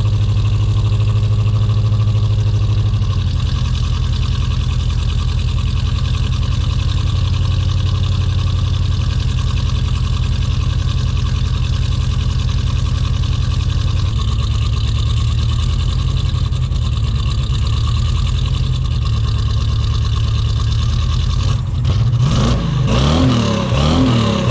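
Chevrolet S10's swapped-in 350 small-block V8 idling steadily and a bit rough, as it is not yet fully tuned. Near the end the throttle is blipped, and the revs rise and fall several times in quick succession.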